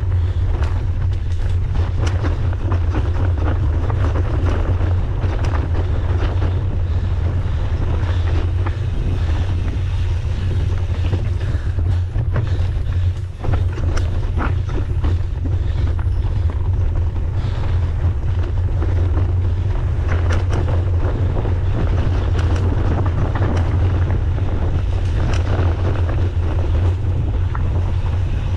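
Wind buffeting the microphone as a mountain bike rides a trail, with steady tyre noise and frequent small rattles and clicks from the bike over rough ground; it eases briefly about halfway through.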